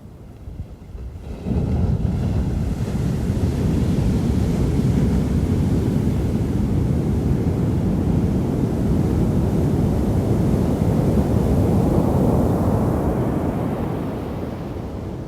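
Pacific surf at high tide: a wave breaks and washes up the beach, swelling suddenly about a second and a half in, rumbling steadily, and ebbing away near the end. Wind buffets the microphone.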